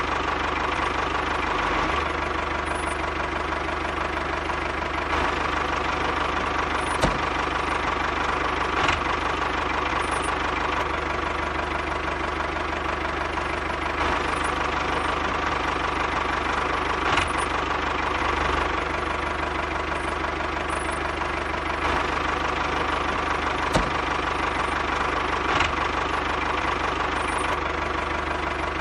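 Steady engine-like chugging, evenly loud throughout, with a held mid-pitched hum and a few sharp clicks.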